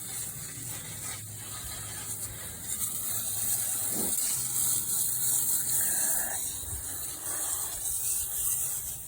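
Water spraying with a steady hiss over a steady low hum, washing mud off a tractor.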